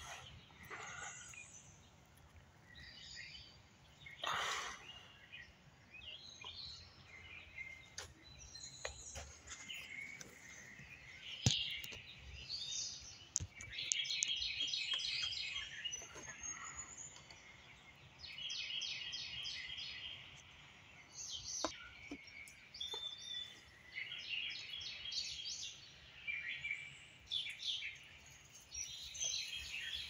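Wild birds singing in the woods, one of them repeating a rapid two-second phrase of quick notes every few seconds among scattered chirps. A single sharp click stands out about eleven seconds in.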